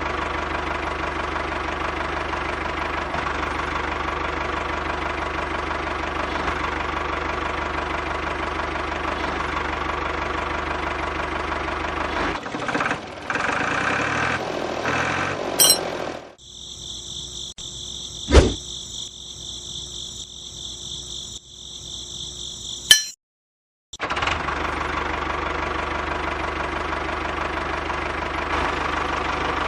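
A steady, even engine-like running sound with a knocking character, as from a miniature toy diesel-engine water pump. It is broken about midway by a thinner different sound with one sharp click. A second of silence follows, then the same running sound resumes.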